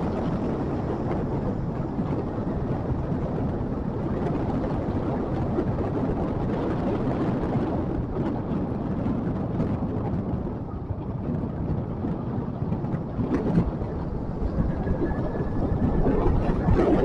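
Motorcycle running steadily while riding, its engine mixed with wind and road noise, with a few short knocks in the last third.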